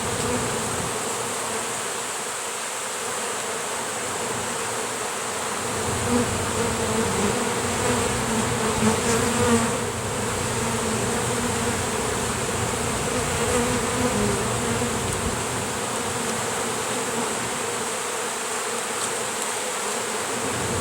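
Honey bees from a disturbed colony buzzing in a dense, steady hum of many wings close around the microphone, swelling a little louder for a few seconds midway as bees pass near.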